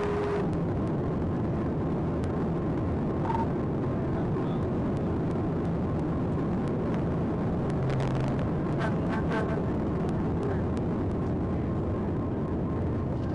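Patrol car's engine and road noise at speed in a pursuit: a steady, loud rush heard from inside the cruiser, with a few faint clicks around the middle.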